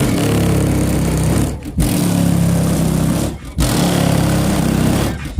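Three 12-inch Massive Audio Gordo subwoofers on an 8K Sound Digital amplifier playing loud bass in long held notes, each about 1.8 seconds long with a brief break between them.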